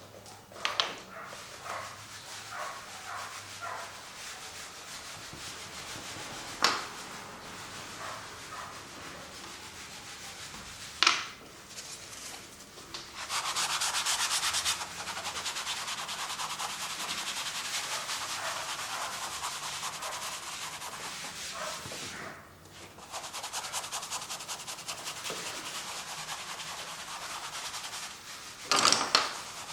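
Acrylic paint being worked across a canvas: continuous scratchy rubbing that grows louder and denser for several seconds in the middle, broken by a few brief sharp swishes, the loudest near the end.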